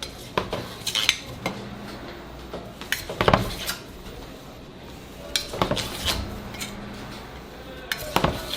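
Metal kitchen utensils and trays clinking and clattering in irregular bunches of sharp knocks, about a second in, around the middle and near the end.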